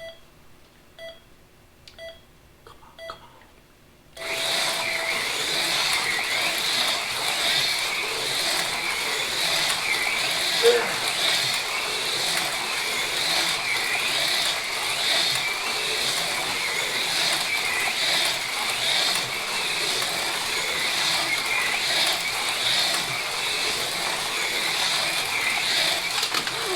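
Race timer beeping a countdown a second apart, then a longer start tone about four seconds in. Two AFX Mega G+ HO slot cars then race around the plastic track, their small electric motors whining steadily with a regular pulsing.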